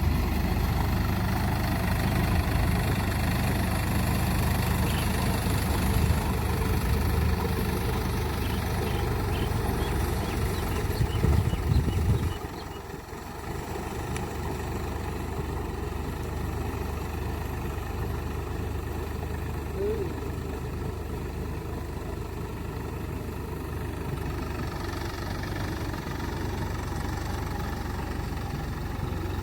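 Sonalika tractor's diesel engine running strongly, then dropping suddenly about twelve seconds in to a quieter, steady run.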